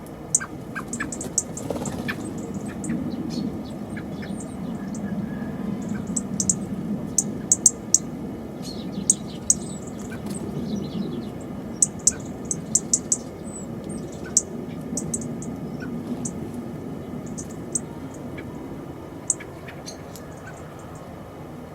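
Small garden birds calling: many short, high chips and ticks scattered irregularly, over a low steady background rumble.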